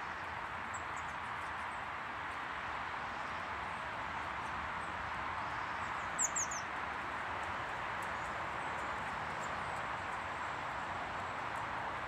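Small garden birds calling with short high chirps, with a quick run of three or four loud downward-sweeping chirps about six seconds in, over a steady rushing background noise.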